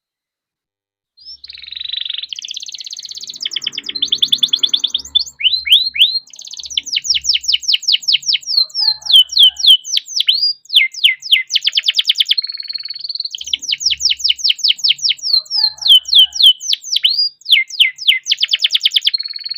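Domestic canary singing a long, dense rolling song: fast trills and rapidly repeated down-slurred whistles strung together without a break, starting about a second in.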